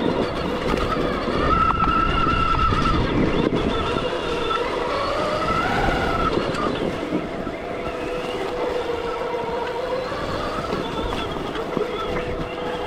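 Stark Varg EX electric dirt bike riding off-road: the electric motor's whine rises and falls gently with the throttle, over wind noise and the rumble and rattle of rough ground.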